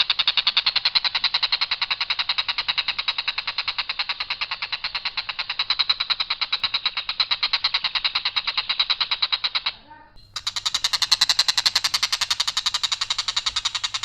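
Tengkek buto (stork-billed kingfisher) calling in a long, harsh, rapid rattle of evenly repeated notes. The rattle breaks off about ten seconds in and resumes half a second later.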